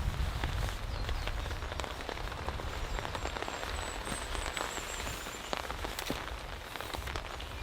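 Steady rain falling, with many individual drops striking close by in sharp ticks over a low rumble.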